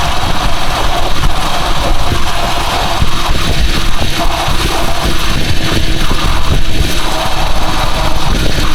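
Rusi Chariot 175 motorcycle on the move, its engine running under a loud, uneven rumble of wind on the microphone.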